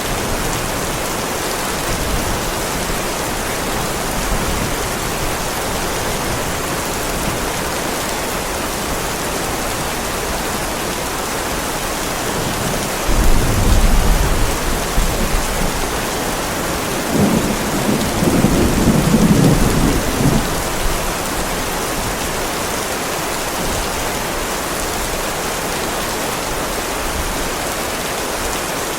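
Heavy rain falling steadily on a driveway, with thunder rumbling twice near the middle, the second rumble longer and deeper.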